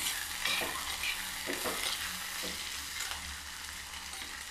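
Chopped onion, garlic, ginger and green chilli sizzling in hot oil in a clay pot (manchatti), stirred with a metal spoon that scrapes against the pot several times.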